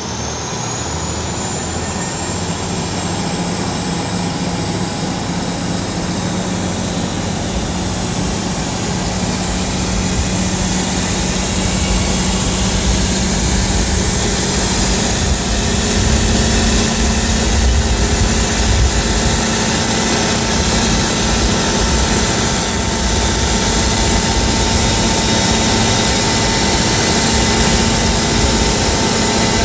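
Large engine of a Khlong Saen Saep public boat, heard on board, pulling away and running up to speed. A high whine rises in pitch over the first couple of seconds and then holds steady, while the engine grows louder through the first half.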